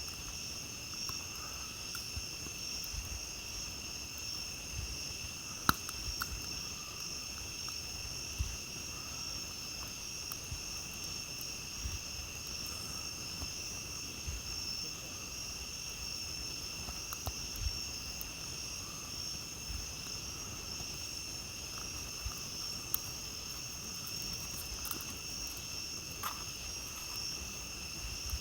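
Steady chorus of night insects, held in a few constant high-pitched tones, with scattered crackles and pops from a campfire, the sharpest about six seconds in.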